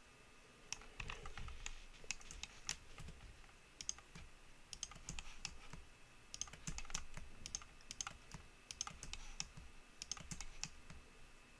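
Computer keyboard keys pressed in irregular runs of light clicks, as in shortcut and selection work at a desk.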